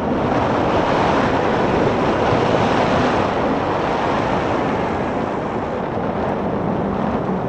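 Steady wind noise rushing over the microphone while riding an electric bike along a trail, easing slightly in the second half.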